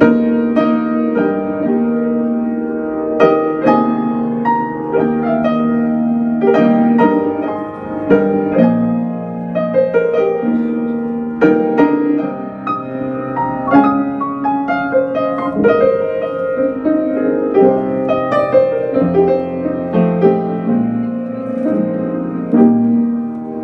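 Piano playing an instrumental passage alone: struck chords and melody notes ring and fade, changing every second or so, with no voice.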